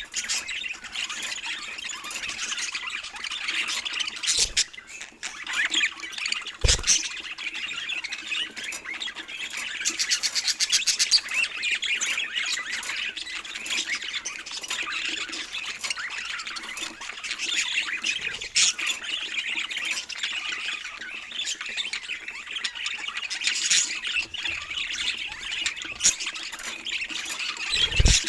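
Budgies chattering and squawking continuously, with a few sharp knocks now and then.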